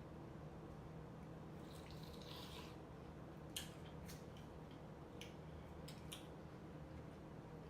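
Faint close-miked eating sounds: a few soft wet mouth clicks and smacks while chewing fruit, spread out over a low steady hum.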